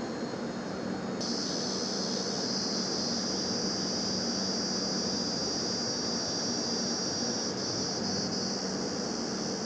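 Express train's LHB passenger coaches rolling along the track: a steady rumble of wheels on rail. About a second in, a steady high-pitched hiss joins it and holds.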